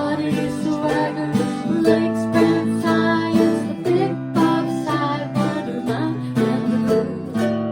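Instrumental country-style music led by acoustic guitar, plucked and strummed, with a steady beat.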